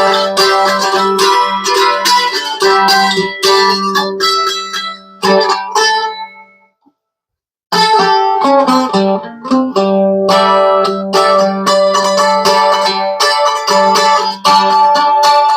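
Washburn mandolin being picked and strummed in quick runs of ringing notes, a try-out after its high frets were seated and its neck relief and action adjusted. The playing dies away about six seconds in, stops for a second, then starts again.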